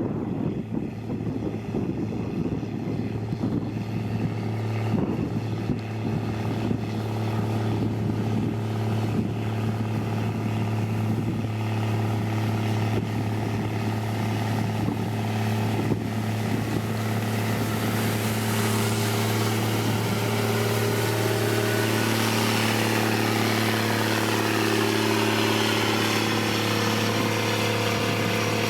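Heavy diesel construction machinery running steadily with a deep, constant engine hum. Over the last third, a higher hiss and gliding whine build on top of it.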